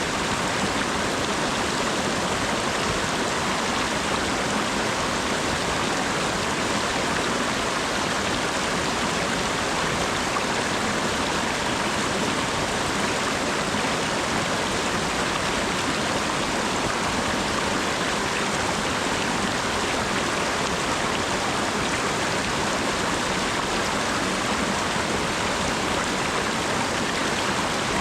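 Steady rain falling, an even wash of water sound with no break or change.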